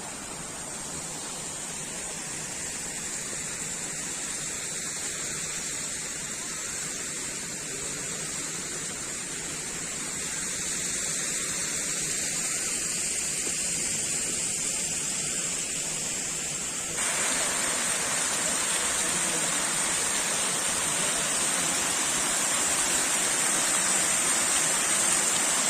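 Steady rushing noise with a high hiss on top, slowly growing louder and stepping up suddenly about two-thirds of the way through.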